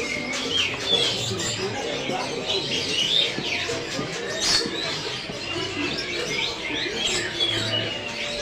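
Many caged songbirds chirping and twittering over one another in quick short calls, with a low background hum beneath them.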